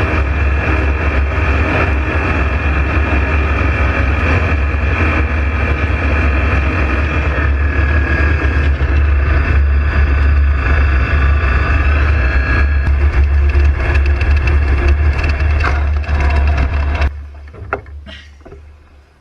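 Loud, steady drone of an airplane with a deep hum and a few steady whining tones, cutting off suddenly near the end, followed by a few faint clicks.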